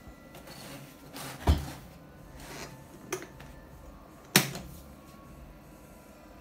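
Handling sounds: two sharp knocks about three seconds apart, a lighter click between them, and some brief rustling.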